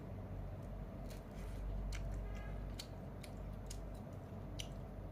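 A person chewing a mouthful of spicy luosifen rice noodles, with scattered small clicks and mouth noises over a steady low hum.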